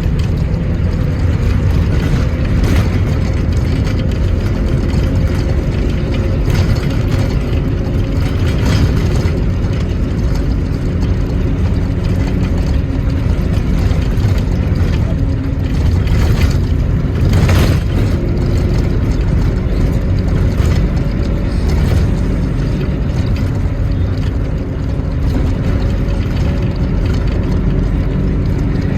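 An engine running steadily with a deep rumble, with scattered knocks and rattles; the strongest knock comes about two-thirds of the way through.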